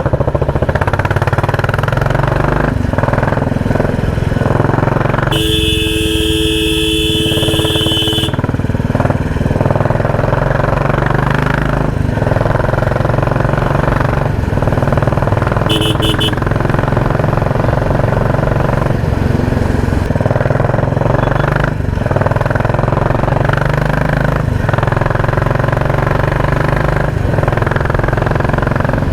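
Royal Enfield Classic 350's single-cylinder engine running through a loud exhaust while riding. A vehicle horn sounds for about three seconds, about five seconds in, and gives short toots around sixteen seconds in.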